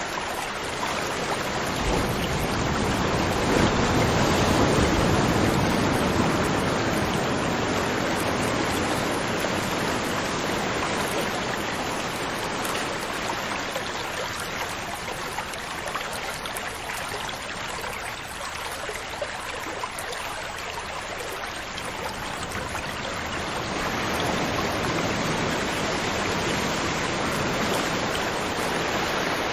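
River water flowing and rushing steadily, swelling slightly louder a few seconds in and easing somewhat past the middle.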